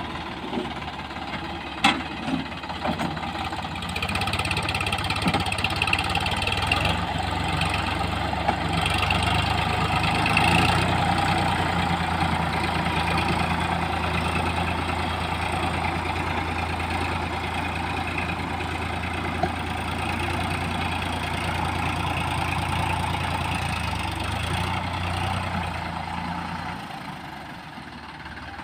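Diesel engine running steadily at a low, even speed, with a sharp click about two seconds in. The sound eases off near the end.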